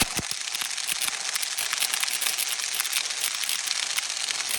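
Impact wrench hammering on the motorcycle's front sprocket bolt, a dense, steady rattle that starts abruptly. The bolt is stuck fast and turns out to be left-hand threaded.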